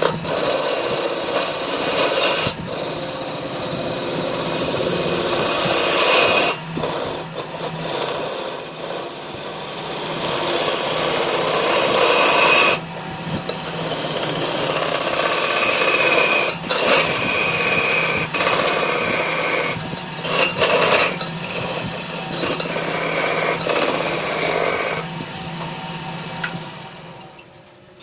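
Wood being turned on a large lathe: a cutting tool scraping against the spinning wood, over the steady hum of the lathe motor. High whistling tones slide down in pitch as the cut goes on, the cutting stops and restarts several times, and the sound fades out near the end.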